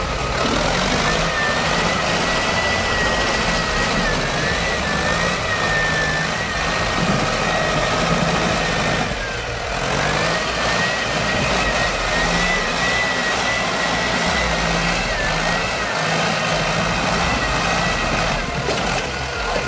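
Tractor engine running steadily, with a high, slightly wavering whine over the rumble. The sound dips briefly about halfway through.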